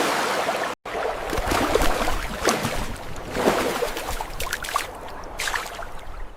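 Water splashing and trickling, with many small irregular splashes. The sound drops out briefly just under a second in.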